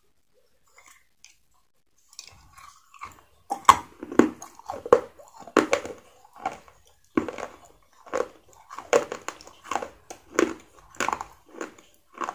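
A person chewing crunchy food close to the microphone. After a near-silent start, chews begin about three seconds in and repeat at roughly one and a half per second.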